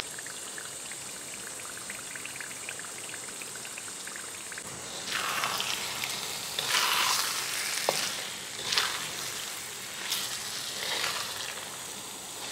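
Chilli sambal paste frying in oil in a wok over a low flame, sizzling steadily with faint crackles while it cooks down until the oil separates out. From about five seconds in, a spatula stirs the paste in about five strokes, each one bringing a louder rush of sizzling.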